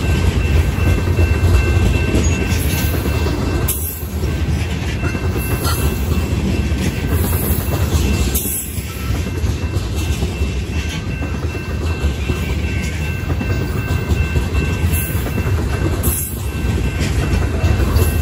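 Freight train of tank cars and covered hoppers rolling past close by: a steady heavy rumble of wheels on the rails, dipping briefly three times, with a faint steady high whine running under it.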